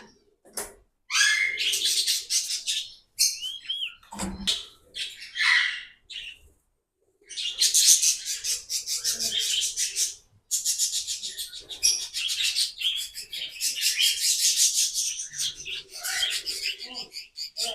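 A flock of small aviary birds (budgies, lovebirds, cockatiels and finches) chirping and chattering in a dense, rapid stream, with a brief gap about six and a half seconds in.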